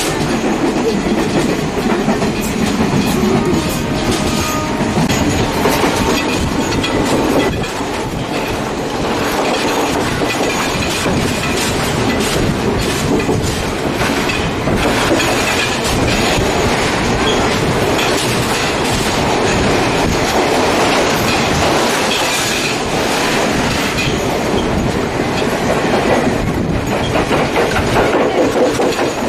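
Passenger train running at speed, heard from inside a carriage with open windows: a steady rumble with a rapid clatter of wheels over the rail joints.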